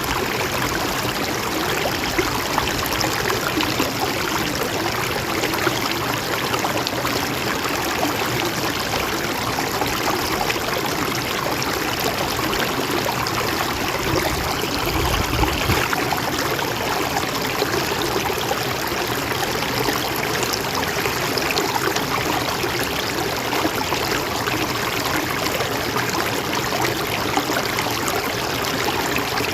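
Gentle mountain stream flowing steadily.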